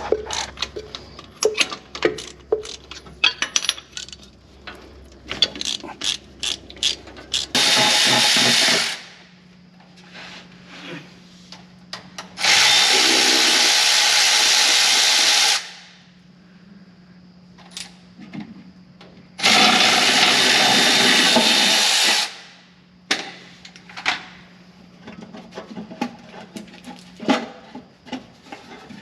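Hand tools clicking and knocking, broken by three runs of a power tool of a few seconds each, the second and third longer than the first: tool work on the spark plugs of a 1959 Ford F700's seized engine.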